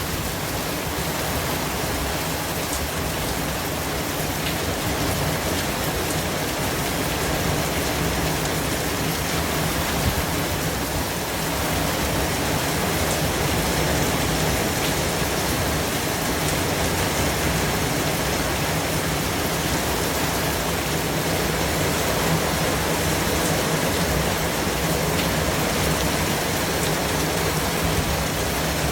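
Steady white-noise hiss spread evenly from low to high pitches, much like heavy rain, with a few faint ticks and a slight rise in level about twelve seconds in.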